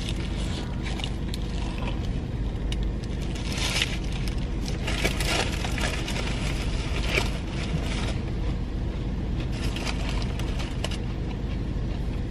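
Chewing and crunching of a crispy fried chicken sandwich close to the microphone, a cluster of crackly crunches about four to seven seconds in, over a steady low rumble inside a car.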